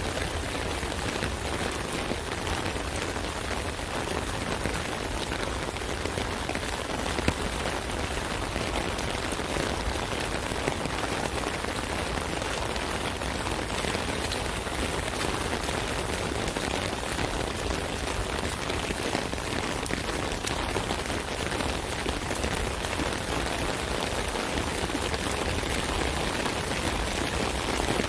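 Steady rain pattering on an umbrella canopy, a dense even patter of many drops.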